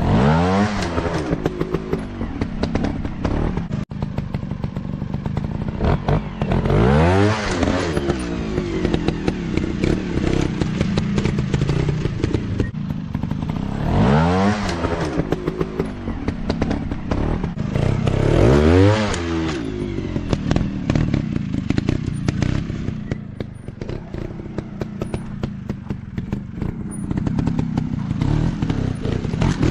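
Dirt bike engines running, with the pitch climbing and falling back about every five to seven seconds as the throttle is opened and rolled off, over a continuous engine drone. Some clatter comes through as well.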